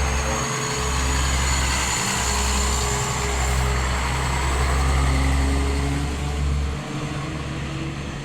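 A large diesel engine running with a steady low rumble, which eases off about seven seconds in.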